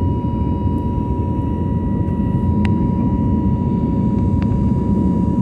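Steady low rumble of an airliner heard from inside the cabin, engine and airflow noise, with a thin steady whine on top. Two faint clicks, a little past the middle and about a second later.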